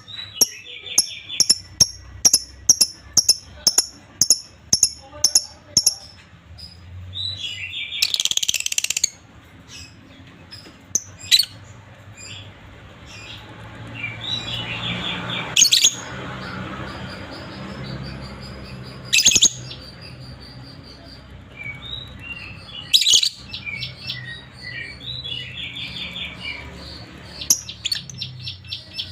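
A pair of lovebirds calling: a quick run of sharp, high chirps, then a loud harsh screech about eight seconds in, followed by several fast chattering trills.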